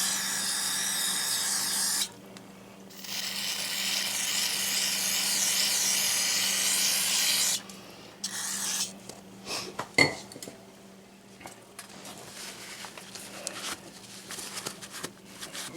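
Aerosol cleaner sprayed into an oil burner fuel pump's strainer housing to flush out debris, in two long hisses with a short break between. Then light clicks and handling knocks, with one sharp click about ten seconds in.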